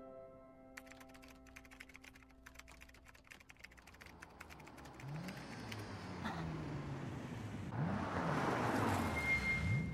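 A held music chord fades out under a quick run of keyboard typing. From about four seconds in, a car engine grows steadily louder as it approaches, its pitch sweeping up again and again as it revs through the gears.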